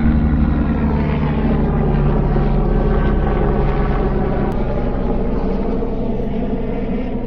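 Jet airliner engines running loud and steady, a low rumble with a steady pitched drone through it.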